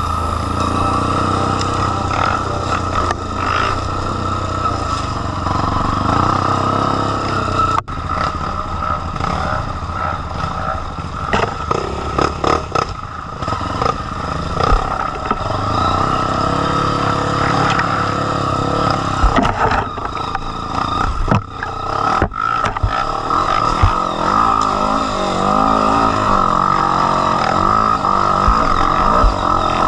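Dirt bike engine running close to the microphone as the bike is ridden along a trail, revs rising and falling with the throttle. A brief break about eight seconds in.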